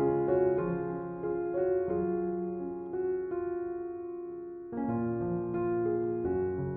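Gentle background piano music, slow notes and chords that fade into a brief lull about two-thirds of the way through before new chords come in.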